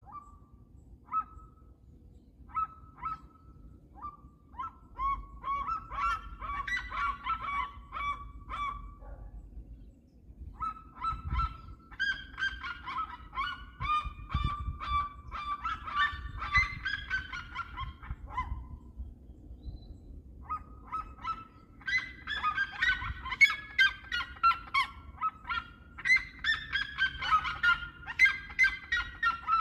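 Seriemas calling: series of loud yelping notes that start spaced out, come faster and then run down in pitch. The calling comes in three bouts with short pauses between them.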